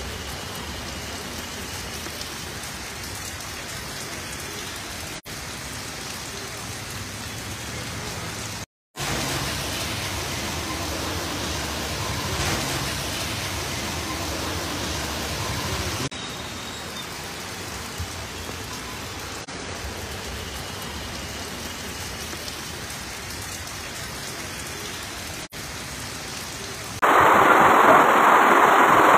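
Heavy rain falling with a steady hiss, heard across several clips joined by abrupt cuts. The sound drops out for a moment about nine seconds in, and becomes much louder near the end.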